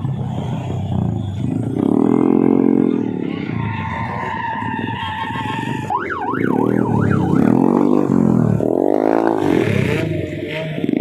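Vehicle engines revved up and down several times, each rev rising and falling in pitch, with a fast warbling siren-type horn sounding about six seconds in.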